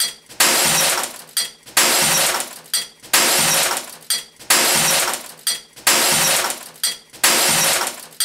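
Glass shattering in a series of identical crashes, one about every second and a half, each sudden and then fading.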